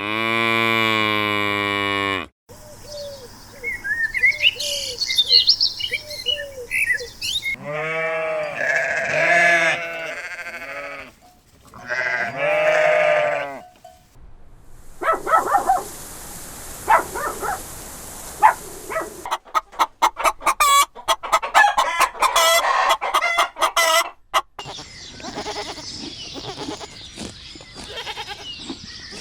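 A run of farm animal calls with hard cuts between them. It opens with one long, steady low call, then comes high chirping, then two groups of wavering bleats, and then fast repeated clucking with sharp clicks.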